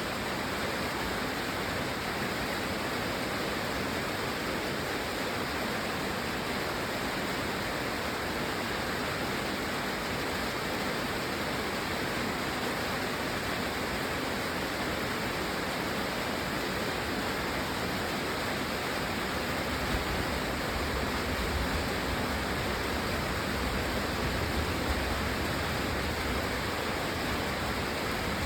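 Steady rain falling, an even hiss. A low rumble joins underneath about two-thirds of the way through.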